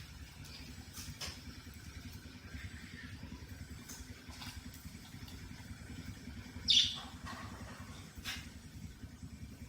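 Cockatiel giving a handful of short, high chirps, the loudest about two-thirds of the way through, over a steady low hum.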